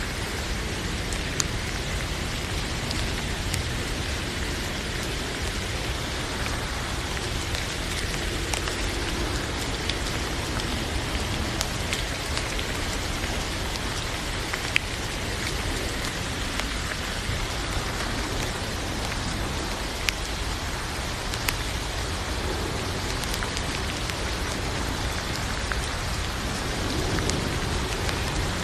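Steady rain falling, an even hiss with sharp taps of single drops scattered through it.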